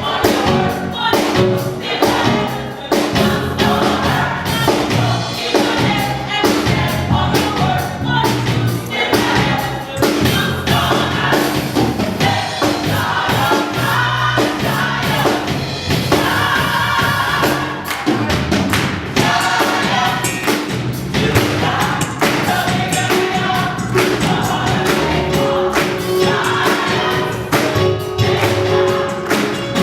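Choir singing gospel music with instrumental backing and a steady beat.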